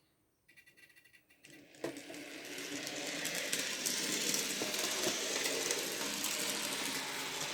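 N gauge model train starting to run: a rapid ticking at first, then the steady whir of its small motor and wheels on the track, building up over about a second and carrying on steadily.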